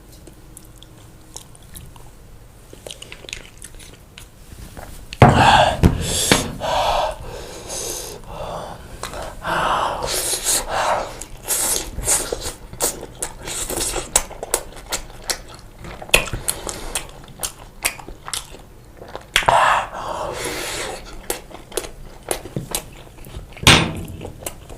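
Close-miked chewing of pizza: wet mouth sounds and many small crackles and smacks, starting with a loud bite about five seconds in after a quiet start.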